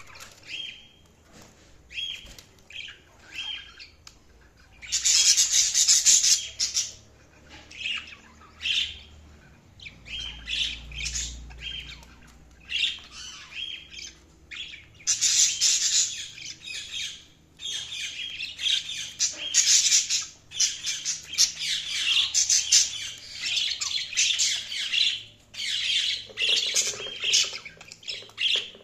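Pet budgerigars (budgies) chirping and chattering. Short, scattered high chirps give way to long, dense stretches of loud, squawky chatter from about five seconds in.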